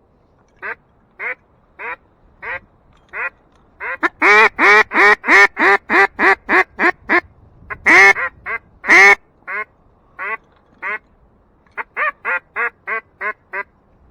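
Hunter's duck call blown in a mallard-hen quacking sequence: a few spaced quacks, then a fast, loud run of about a dozen about four seconds in, two long loud quacks near the middle, and a quicker series near the end. Calling to draw passing ducks in to the decoys.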